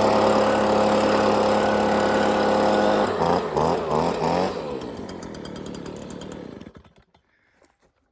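A chainsaw running an Alaskan chainsaw mill at steady full revs. About three seconds in it surges up and down a few times, then dies away to a stop near the end, the saw running out of fuel.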